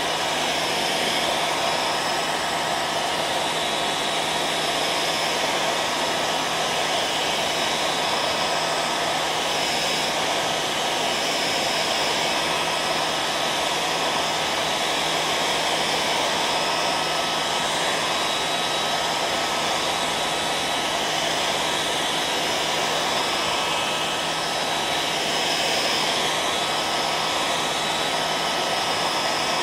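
Hair dryer running steadily: an even rush of blown air over a low motor hum and a high whine, both held at one pitch with no change.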